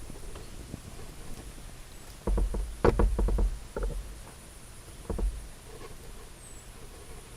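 A quick run of knocks and clicks with a low thump, about two to four seconds in, and one more knock about five seconds in, over faint steady outdoor background.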